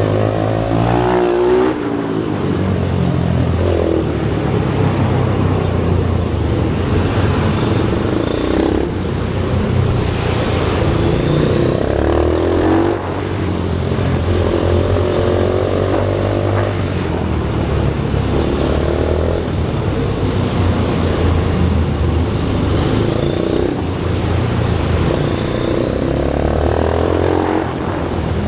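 Pit bike's small single-cylinder engine being ridden hard around a track, revving up and dropping back again and again through corners and gear changes.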